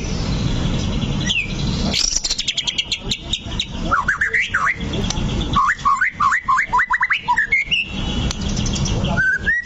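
White-rumped shama singing: a fast rattle of notes about two seconds in, then clear whistled glides and a quick run of rising whistles, over a low steady background rumble.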